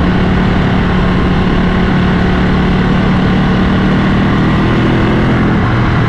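Ducati motorcycle engine running steadily at road speed, with wind rush over it. About five and a half seconds in, the engine note drops to a lower steady pitch as the bike eases off.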